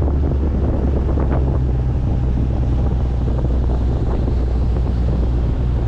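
Wind buffeting the microphone over the steady low drone of a motorboat's engine running.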